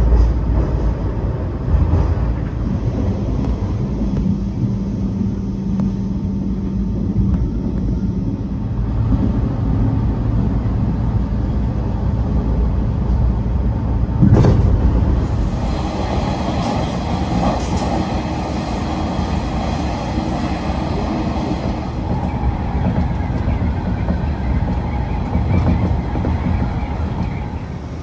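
A Hanshin Railway electric commuter train running, heard from inside the car behind the driver's cab: a continuous low rumble of wheels on rail, with a steady low hum in the first few seconds. About halfway there is a sudden jolt, and after it the running noise becomes brighter and more rattly.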